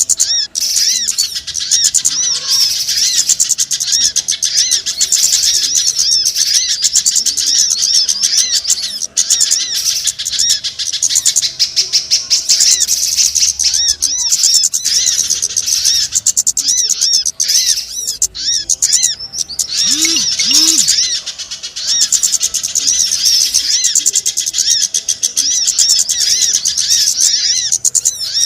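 Bird-lure recording of many small birds chirping: a dense, continuous twitter of rapid high-pitched chirps, played to attract small birds. Two short low notes sound about two-thirds of the way through.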